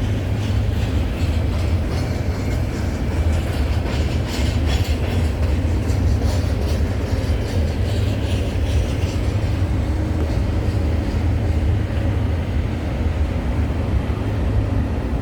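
CN intermodal freight train rolling past at close range: a steady low rumble of cars and wheels on the rails, with scattered clicks from the wheels.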